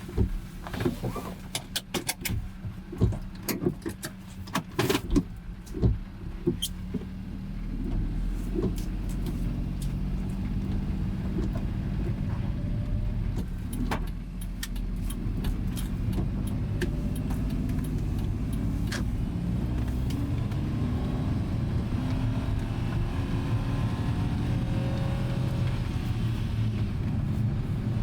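A light truck's engine running steadily, starting up about a quarter of the way in, after several seconds of sharp clicks and knocks.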